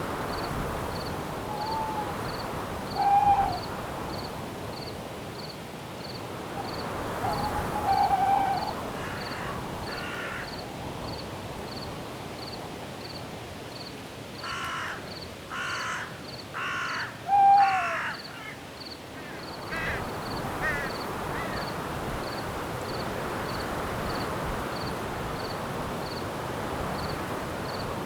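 Night forest ambience: steady insect chirping, about two pulses a second, over a hiss of wind in the leaves. A large bird gives harsh calls, a few single ones early on and then a run of four about a second apart near the middle, the loudest of all.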